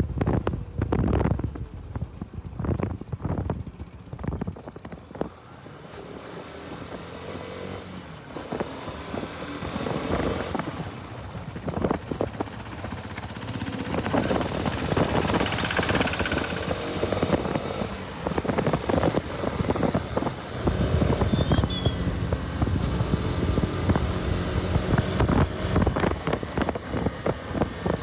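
Bajaj Pulsar RS200's single-cylinder engine running on the move, under wind buffeting the microphone. A broad rushing hiss swells and peaks about halfway through.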